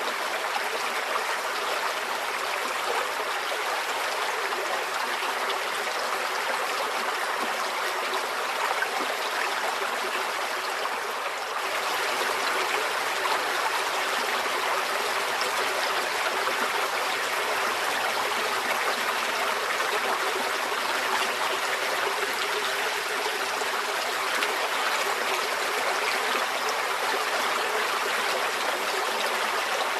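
Flowing stream: a steady, even rush and trickle of water, stepping up slightly in level about a third of the way in.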